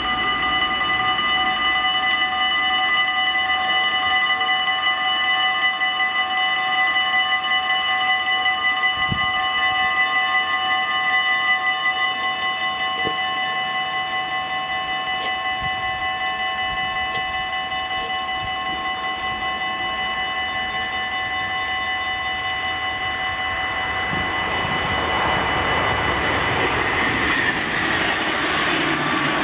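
Warning bells of a Dutch automatic half-barrier level crossing ringing steadily, several bells at different pitches; one of the four is faulty and rings slowly. About three quarters of the way through, a passing train's rushing noise swells over the bells.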